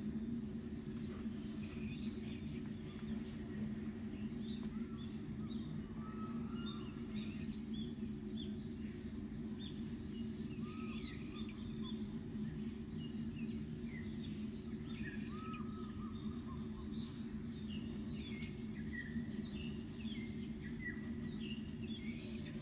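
Small birds chirping with many short, scattered calls and a few little arched notes, over a steady low background hum.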